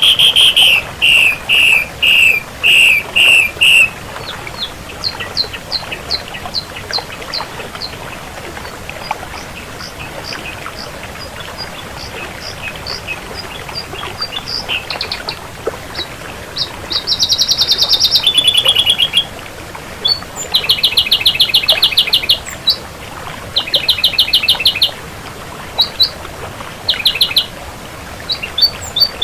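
Ashy drongo calling: several loud bursts of fast, rattling trill notes at first, then a long run of sharp, evenly spaced single notes, then more fast trill bursts from about two-thirds of the way in.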